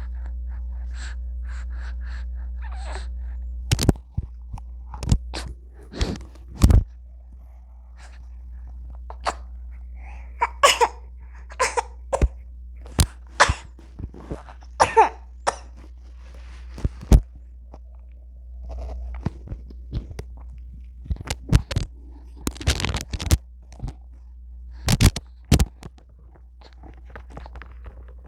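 Newborn baby making scattered little sneezes, coughs, gasps and grunts, with short pauses between them, over a steady low hum.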